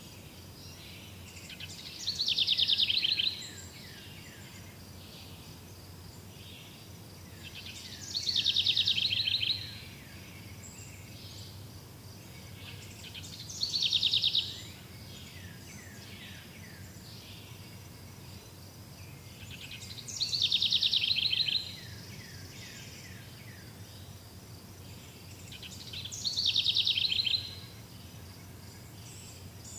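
A songbird repeating the same fast, trilled song phrase of quick falling notes, five times, about every six seconds. Under it runs a steady chorus of insects.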